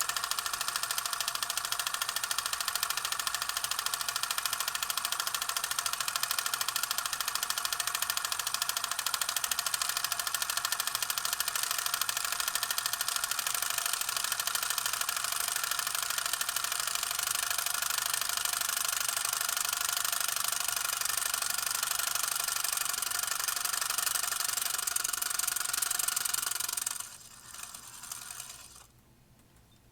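8mm film camera running, its film transport making a steady, rapid mechanical rattle. It stops about 27 seconds in, followed by a short, weaker stretch of mechanism noise.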